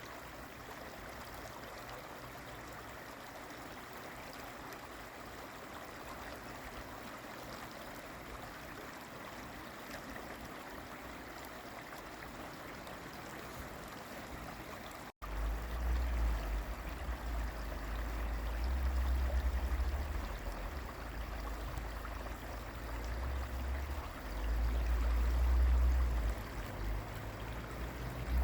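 Steady rushing of flowing stream water. About halfway through it drops out for an instant, then resumes with a heavy low rumble that swells and fades under the water noise.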